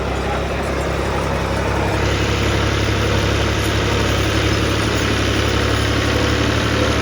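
Tractor engine running steadily, growing louder about two seconds in.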